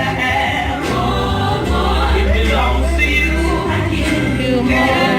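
Gospel music: a choir of several voices singing over a band, with sustained bass notes.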